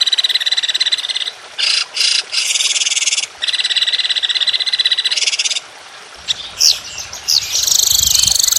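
Songbird singing long, rapid rattling trills, the 'tembakan' rapid-fire song used for training cage birds. Each trill lasts one to two seconds with short breaks, a few quick sweeping notes come about two-thirds of the way through before another trill starts, and a low rumble sits under the last part.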